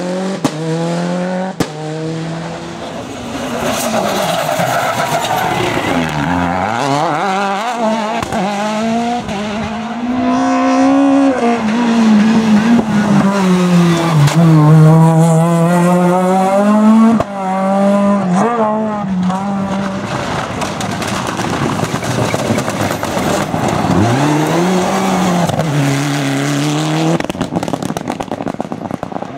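Rally car engines at full race revs, the pitch climbing through the gears and dropping sharply on lifts and shifts several times, loudest about halfway through.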